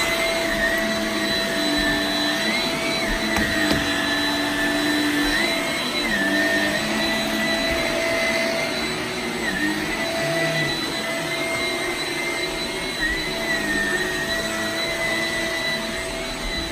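Shark Rocket HB301C upright vacuum running on its deep-clean carpet setting, a steady, loud motor whine whose pitch dips and recovers slightly every few seconds as it is pushed back and forth over carpet.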